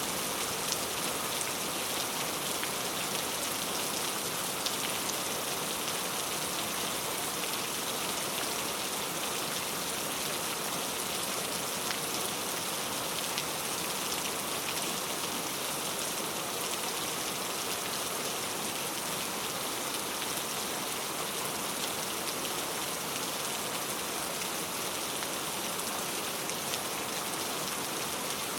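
Heavy rain falling steadily on mango tree leaves, a dense even patter of drops hitting the foliage with occasional sharper drop hits.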